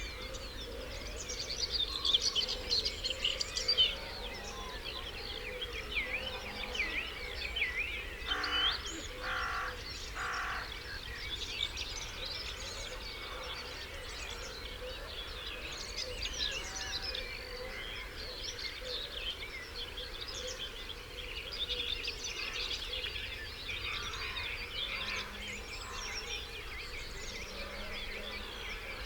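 Dawn chorus of many songbirds singing over one another in quick, overlapping high whistled phrases. About nine seconds in, three short harsh calls sound in a row, under a steady low background hum.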